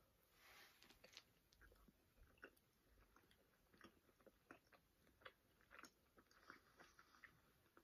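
Two people chewing soft glazed donuts, faintly: small, irregular wet mouth clicks and smacks.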